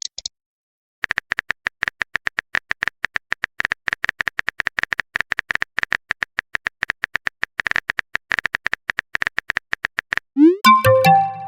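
Keyboard typing sound effect: a fast, even run of clicks for about nine seconds, followed near the end by a short message notification chime with a rising glide.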